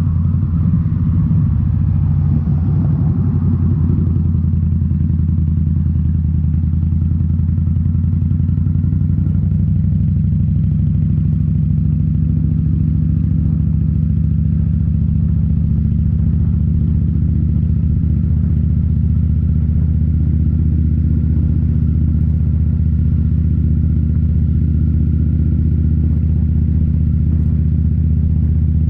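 2018 Indian Scout Bobber's V-twin engine running through Rinehart slip-on mufflers, a steady, even exhaust note with little change in engine speed after some wavering in the first few seconds.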